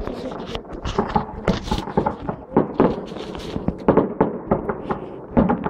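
Fireworks going off in quick succession: an irregular string of sharp bangs and crackles, a dozen or more in a few seconds.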